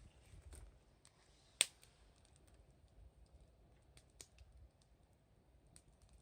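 Wood bonfire crackling quietly with scattered small pops, and one sharp, louder crack about one and a half seconds in.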